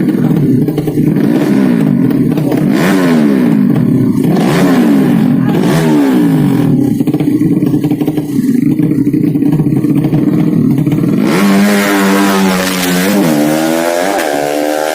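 Several 200cc underbone racing motorcycle engines revving, their pitches rising and falling and crossing one another. Over the last few seconds one engine is louder, sweeping up and down in pitch.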